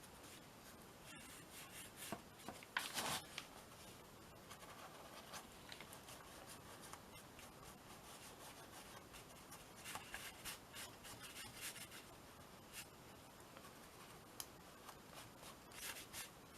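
Faint scratching and rubbing of art materials being worked on a small canvas, with a few short, louder rustles of handling.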